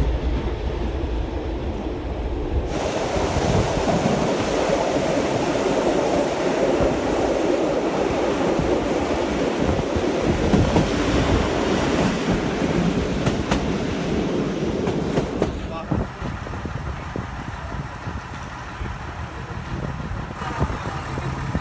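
Slovenian Railways class 813/814 diesel multiple unit running along the line. There is a steady rumble of wheels and rushing air, louder and brighter from about three seconds in. It drops to a quieter background with the train standing at a station platform near the end.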